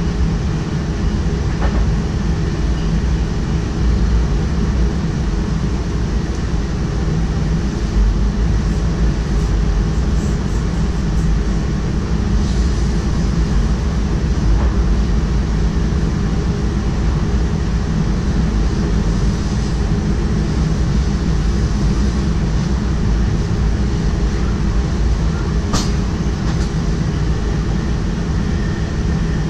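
Steady running noise in the driver's cab of a moving DDAR double-deck train: a continuous low rumble with a few faint clicks, and one sharper click near the end.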